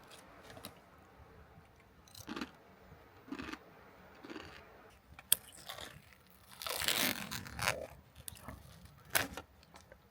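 Close, intermittent rustling, crunching and scraping, like things being handled, with a sharp click about five seconds in and a longer rustle about seven seconds in.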